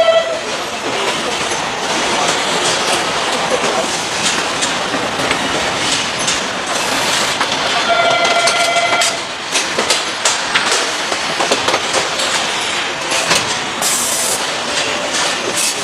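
Motorcycle assembly-line noise: a steady machinery din with scattered clicks and clatters, and a short horn-like warning tone that sounds twice, at the start and about eight seconds in.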